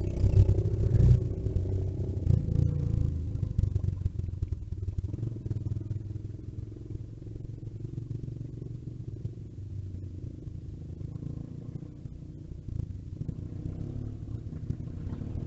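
Small off-road vehicle engine running, loudest in the first couple of seconds, then easing to a steady, quieter drone.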